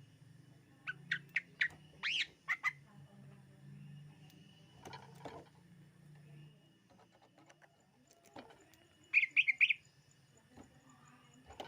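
Cucak ijo (greater green leafbird) calling in short, sharp chirps: a run of about seven starting about a second in, then a quick burst of four near the end. A faint low hum lies underneath.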